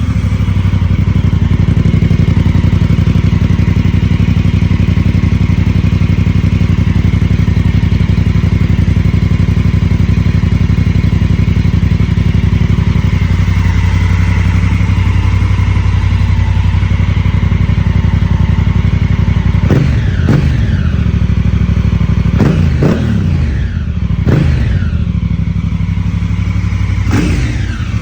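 2019 Honda Africa Twin's parallel-twin engine running through a LeoVince LV One aftermarket exhaust. It idles steadily just after starting, then is revved in several short throttle blips in the last third.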